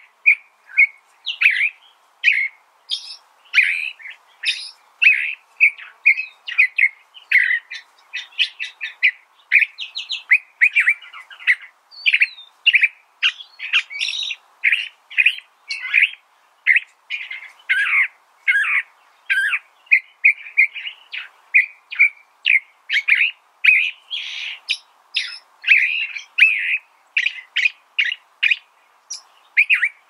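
California thrasher singing: a long, unbroken run of short, varied chirps and whistled notes, several a second, in jumbled changing phrases.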